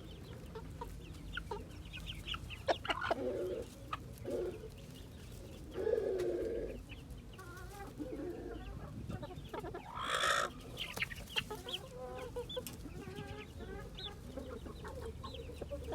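Chickens clucking, with many short calls scattered throughout and a louder, harsher call about ten seconds in.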